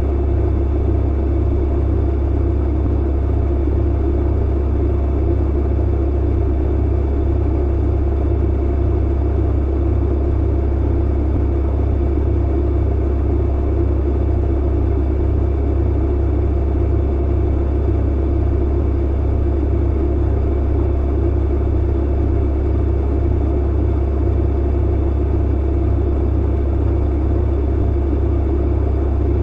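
Clothes dryer running steadily: a low hum and rumble with a constant drone above it.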